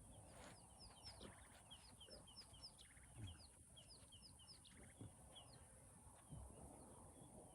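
Faint birdsong: a quick, steady series of short, high, falling chirps in the bush.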